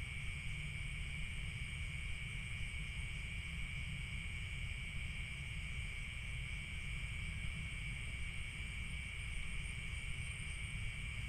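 Steady chorus of crickets and other field insects chirring without a break, over a low rumble.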